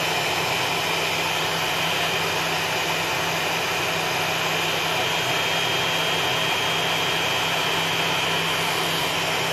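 Homemade table saw running steadily, its blade spinning free with a steady high whine over a motor hum. The soundproof enclosure's lid is open, so this is the saw's unmuffled sound.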